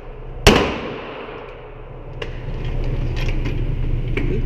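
A single gunshot about half a second in, its report ringing and echoing off the walls of an indoor range for about a second. A few faint clicks follow, and a low rumble builds toward the end.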